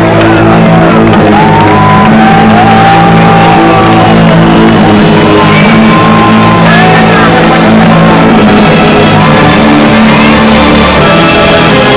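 Very loud live music over a festival sound system, with a steady bass line and a crowd shouting and whooping along.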